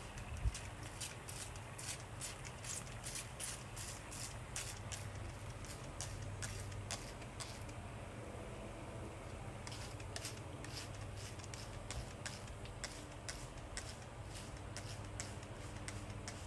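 A run of sharp, irregular clicks, a few per second, pausing for about two seconds midway, over a low steady hum.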